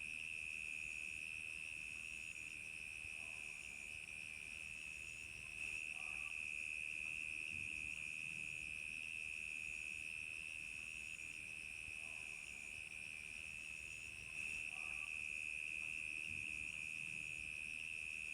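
Night chorus of crickets: a steady, unbroken high trill, with a shorter, higher chirp repeating about once a second above it.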